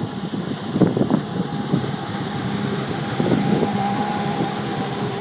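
Jet ski engine running steadily, its pitch rising a little partway through, with wind buffeting the microphone and a few knocks about a second in.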